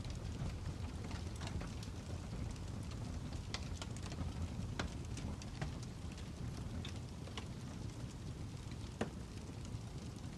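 Fire crackling: a steady low rush with irregular sharp pops and snaps, a couple of them louder, about halfway and near the end.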